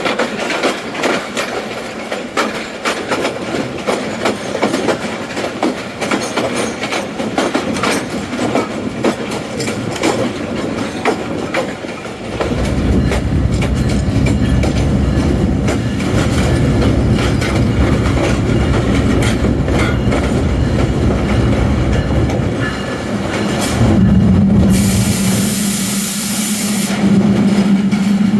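Passenger train running on the rails, wheels clicking over the rail joints. About halfway through, a louder low rumble sets in. Near the end a steady hum starts and a brief high hiss is heard.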